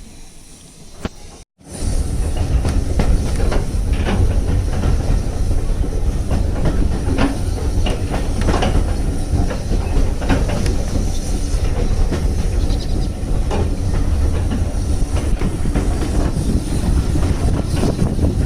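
Heritage railway train running along the line: a loud, steady low rumble with irregular clicks and knocks of the wheels on the track. It starts abruptly about a second and a half in.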